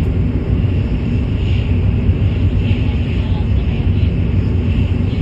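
Shinkansen high-speed train running, a steady low rumble.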